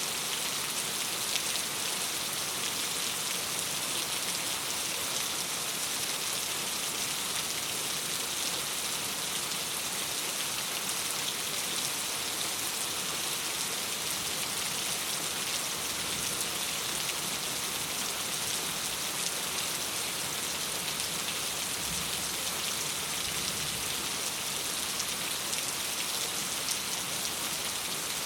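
Steady rain on a window: an even, unbroken hiss with a fine patter of drops throughout.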